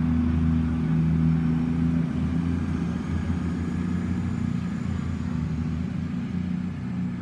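Class 221 Super Voyager diesel multiple unit's underfloor diesel engines running with a steady low drone as the train pulls out, easing a little toward the end.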